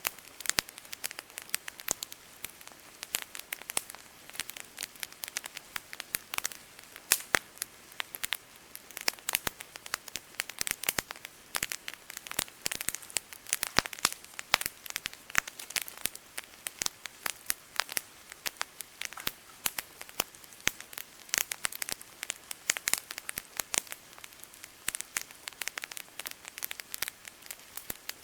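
Campfire crackling: wood popping and snapping in dense, irregular sharp clicks, several a second.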